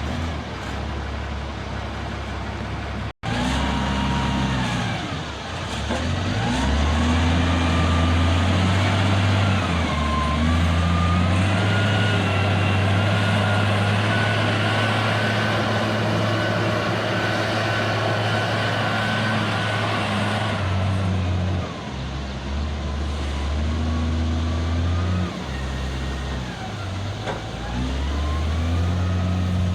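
Diesel engine of an L&T 9020 backhoe loader working hard while loading, its pitch rising and falling with a whine that glides up and down. The sound cuts out suddenly for a moment about three seconds in.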